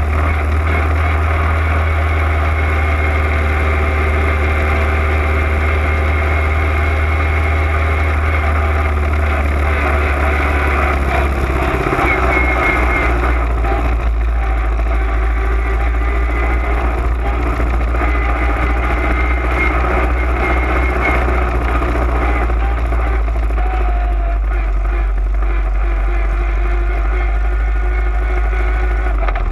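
Open-wheel race car's engine running at low revs as the car rolls slowly, heard from the onboard camera; its low steady note drops in pitch about twelve seconds in.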